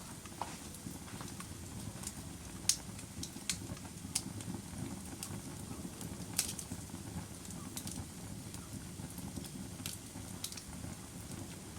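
Log fire crackling: a steady low rush from the burning logs, with irregular sharp pops and snaps, the loudest about a quarter of the way in.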